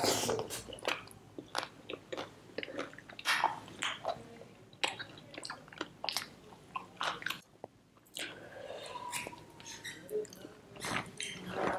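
Close-miked chewing of butter chicken and naan, with irregular wet smacks and clicks of the lips and of licked fingers.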